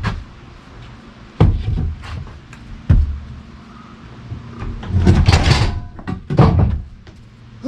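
Heavy log being rolled over on the bed of a Woodland Mills sawmill: two sharp knocks about a second and a half and three seconds in, then longer scraping and grinding of the log shifting near the end.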